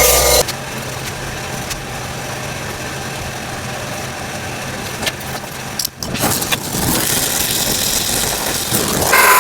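Handmade coil tattoo machine, built from railroad-tie nails, buzzing. The loud buzz cuts off abruptly about half a second in, and a quieter steady hum with a few knocks follows. A louder, higher buzz starts up again just before the end.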